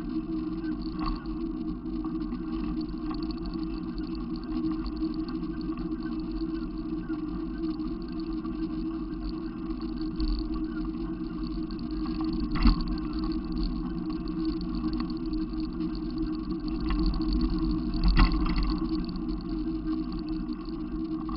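Steady low drone of a running vehicle, with two short knocks, one a little past halfway and one near the end.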